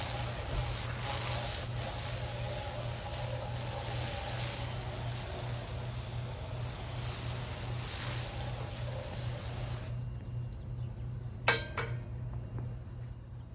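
Water spraying onto stacked freshly sawn claro walnut boards to wet them and bring out the figure: a steady hiss that stops about ten seconds in. A single sharp knock follows shortly after, over a steady low hum.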